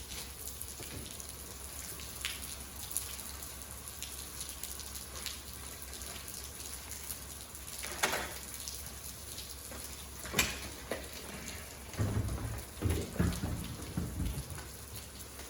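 Heavy rain falling steadily, a constant hiss of drops on surfaces. A couple of sharp knocks come about halfway through, and a cluster of low thuds near the end.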